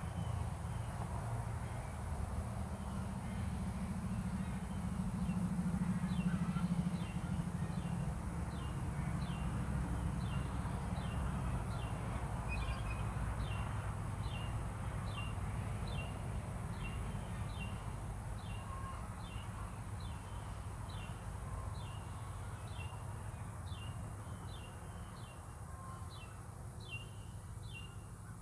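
A bird calling over and over with short, high, downward-sliding notes, about one a second and quickening near the end, over a steady low rumble.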